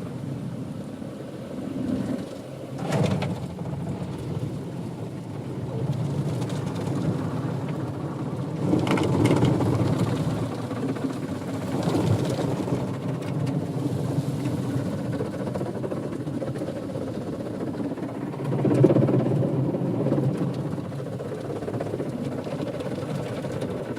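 Automatic tunnel car wash working over a car: a steady rumbling wash of water and machinery on the bodywork, swelling louder several times as the equipment passes.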